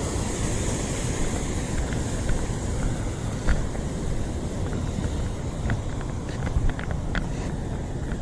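Wind rumbling on the microphone, with a thin steady high hiss over it and a few light clicks and taps, most of them in the second half.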